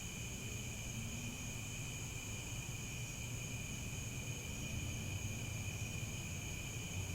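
Chorus of crickets chirping in a continuous high-pitched trill, over a low background rumble.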